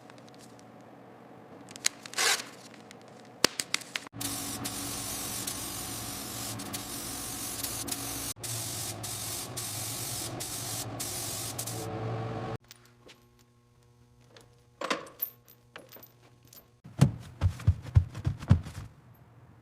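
A montage of workshop sounds: scattered clicks and knocks, then a steady hiss for about eight seconds that cuts off suddenly, and a quick run of knocks near the end.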